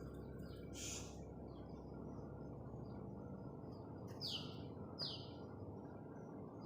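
Swiftlet giving two short, shrill chirps that fall in pitch, about a second apart, after a brief hissy call near the start, over a steady low hum.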